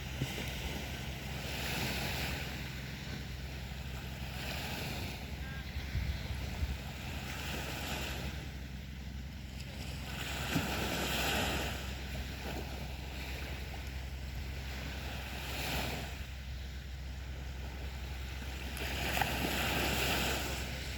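Sea waves breaking on a beach, the wash of surf swelling and fading about every four to five seconds. A steady low rumble of wind on the microphone runs underneath.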